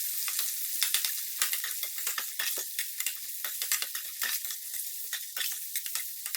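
Sliced onions frying in hot oil and ghee, sizzling with a dense crackle of small pops while being stirred in the pan.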